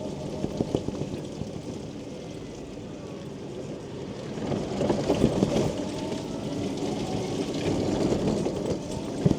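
Quingo Toura Mk2 mobility scooter driving in rain with its canopy on: raindrops ticking on the canopy over the hiss of wet tyres and a faint steady motor whine, louder for a moment about halfway through.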